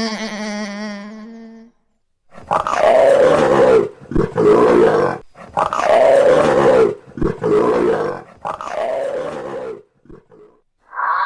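An animal giving a series of about five rough, drawn-out roaring calls, each a second or more long with short breaks between them. They follow the tail of a steady, pitched call that fades out in the first couple of seconds.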